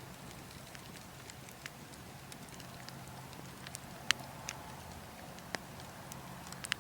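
Burning logs crackling, with scattered sharp pops, the loudest about four seconds in and a pair near the end, over a steady low rumble of wind.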